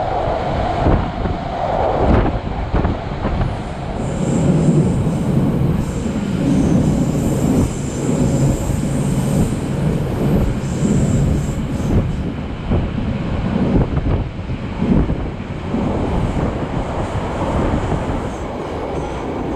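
Passenger train running along the track, heard from an open-air viewing carriage: a steady rumble of the wheels and rushing air, with clacks over the rail joints. A thin high wheel squeal comes in from about four to eleven seconds in.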